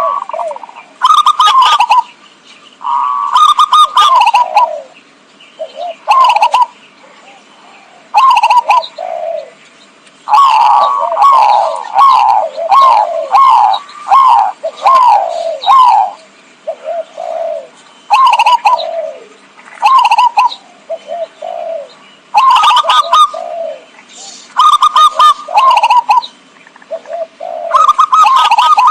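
Zebra dove (perkutut) cooing: phrase after phrase of quick, rolling coo notes, about ten phrases with short pauses between, the longest running about six seconds near the middle. Loud, with the peaks reaching full scale.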